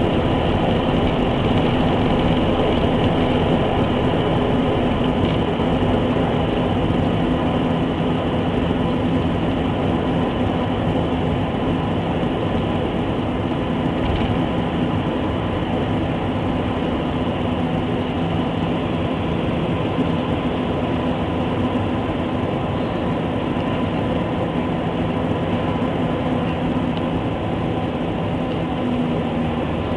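Jet airliner engines and airflow heard from inside the passenger cabin: a steady rush with a few steady humming tones, easing slightly toward the end.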